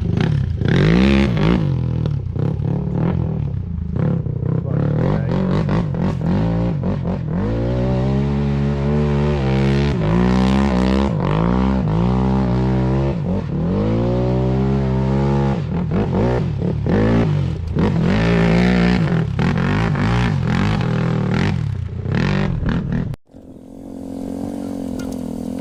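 A motor vehicle engine revving, its pitch climbing and dropping again and again as if accelerating through the gears. Near the end it cuts to a steadier, quieter engine hum.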